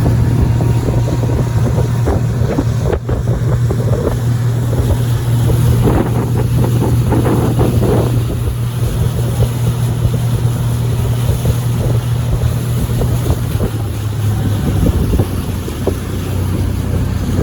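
Motorboat engine running with a steady low hum, with wind buffeting the microphone.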